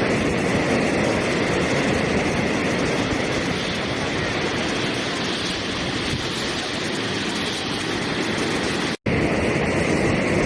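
Steady rushing water, an even unbroken noise. It cuts out to silence for a split second about nine seconds in, then resumes unchanged.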